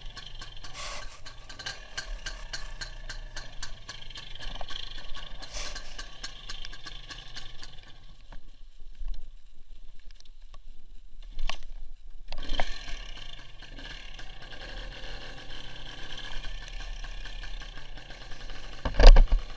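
WSK 175 single-cylinder two-stroke motorcycle engine running, heard on board with rattling and fine clicks. It drops quieter for a few seconds in the middle, and a single loud knock comes near the end.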